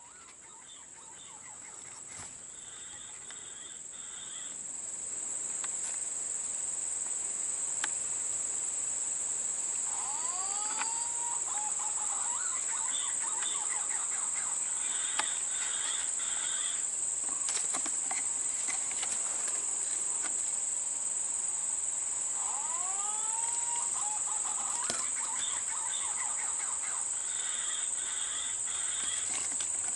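Insects chirring in one steady high-pitched drone, swelling over the first few seconds and then holding. Twice, about ten seconds in and again past twenty seconds, a short run of rising whistled calls sounds over it.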